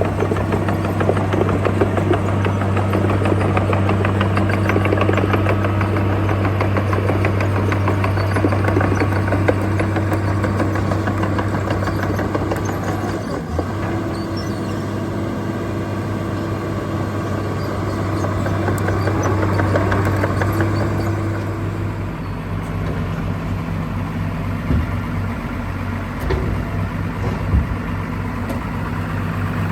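Diesel engine of a Dynapac F141C asphalt paver running steadily, with a low, even hum. The engine note shifts briefly about halfway through and drops a little in level near the end.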